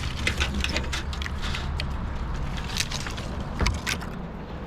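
Scattered clicks, rattles and knocks from handling equipment, over a low engine hum that fades out early on.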